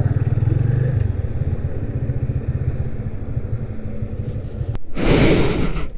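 Motorcycle engine running at low speed with a steady low pulse while the bike is brought to a stop, the pulse ending just before a sharp click about five seconds in. A burst of loud hiss-like noise lasting under a second follows near the end.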